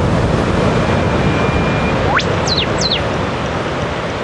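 Eastern whipbird call and reply over steady surf noise: a long, even whistle ending in a sharp upward whip-crack, answered at once by two quick descending notes, the female's double-note reply to the male.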